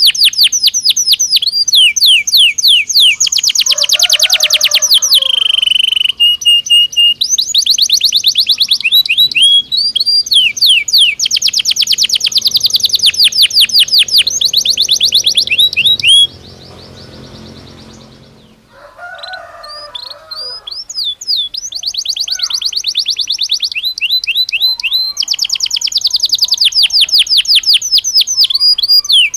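Belgian canary singing: long runs of fast rolling trills and quick repeated sliding notes, with a few short held whistles. The song breaks off for about two seconds just past halfway, then starts again.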